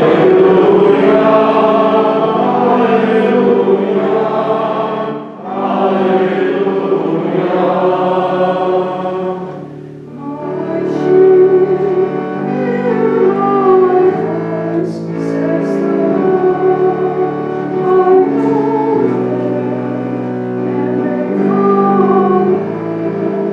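Church choir singing the Gospel acclamation with accompaniment. It goes in sung phrases, with short breaks about five and ten seconds in.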